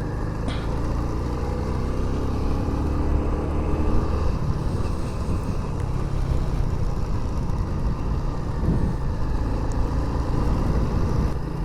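Motorcycle engine running while riding on the road, picking up speed over the first few seconds, with steady wind and road noise.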